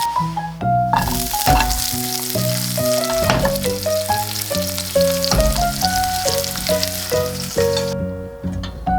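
Food sizzling as it fries in a hot pan, starting about a second in and cutting off shortly before the end, under background piano music.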